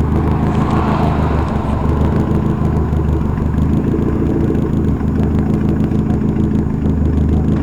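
Turbocharged Honda D16A9 four-cylinder engine running through a straight-piped exhaust, idling steadily with a deep, even exhaust note.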